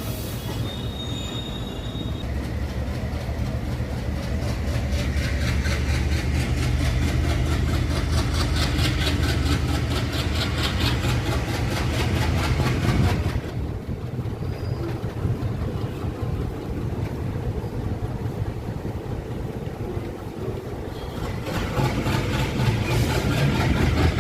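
Passenger express train running along the rails with a low rumble and a rapid, regular clatter. It drops quieter about halfway through, then builds again near the end.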